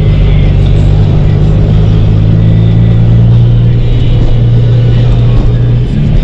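Nissan 350Z's V6 engine running at a steady cruise, a loud, even drone whose note shifts briefly near the end.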